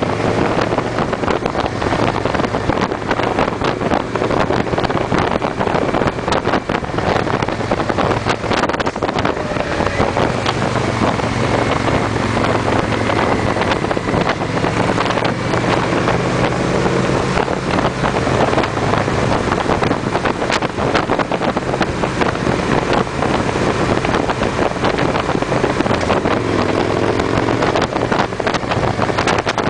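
Victory V-twin motorcycles running at cruising speed in a group ride, with a steady low engine drone. Wind buffets the microphone throughout.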